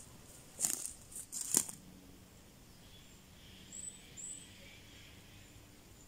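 A few sharp crackles in the first two seconds, then a bird calls twice, two short high chirps, faint among the trees.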